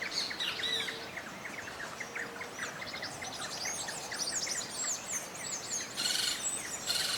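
Several songbirds chirping and singing together, a dense chorus of quick chirps and rapid down-slurred whistled notes, with two short harsh buzzes near the end.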